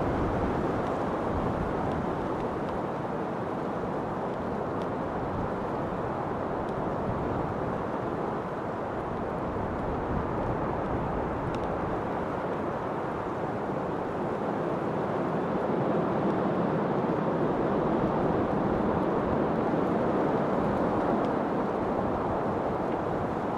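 Steady rushing wind, a low, even noise that swells a little about two-thirds of the way through.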